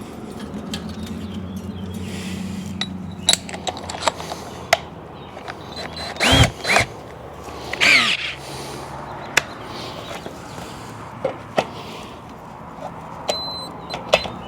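Power drill boring a 7/8-inch hole into a steering knuckle: the motor hums steadily at first, then runs in shorter spells with sharp metallic clicks and a couple of brief squeals from the bit biting into the metal, about six to eight seconds in.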